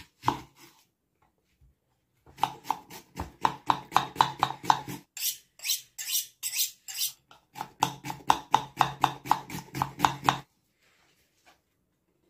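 Knife chopping on a cutting board in quick, even strokes, about five a second, in three runs separated by short pauses; the middle run sounds sharper and brighter than the other two.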